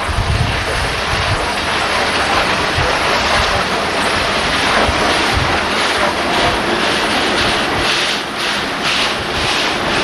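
A train running, with a steady rumble and wind buffeting the microphone in the first second. In the last few seconds a regular beat of about two a second comes through, the rhythm of wheels over rail joints.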